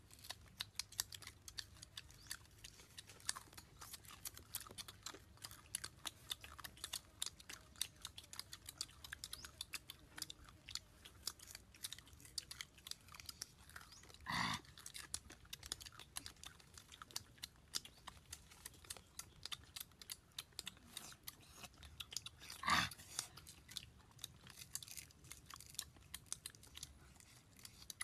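Close-up chewing and crunching of fried snake meat: a dense run of small crisp crunches and mouth clicks. Two brief louder sounds stand out, about halfway through and again about four-fifths of the way through.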